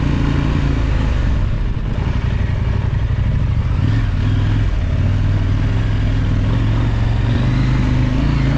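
Big adventure motorcycle's parallel-twin engine running under load through deep sand, at a fairly steady pitch with small changes in revs.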